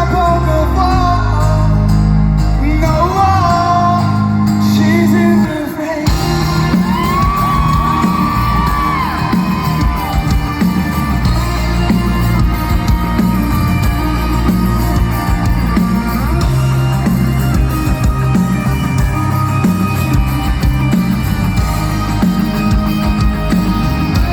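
Live rock band playing, with a voice singing over held bass notes. About five seconds in the music breaks off briefly, and the full band comes back in with drums.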